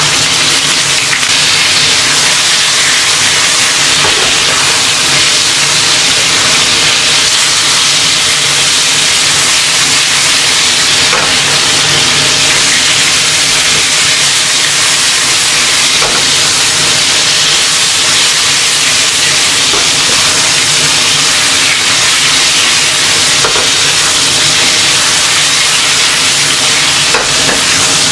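Long green chili peppers blistering in hot oil in a nonstick wok, a loud steady sizzle as they fry toward tiger-skin char. A silicone spatula stirs them, with a few faint knocks against the pan now and then.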